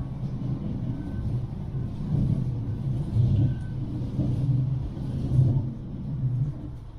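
Bombardier M5000 light-rail tram running along the track, heard on board: an uneven low rumble that swells and eases, with two faint short high squeals, and it quietens near the end.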